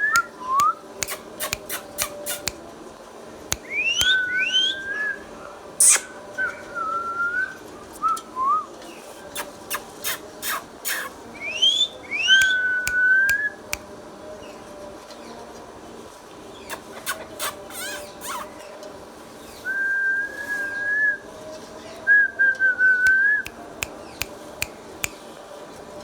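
Ringneck parrot whistling: held whistled notes and quick upward-sweeping whistles in several bouts, with many short sharp clicks between them.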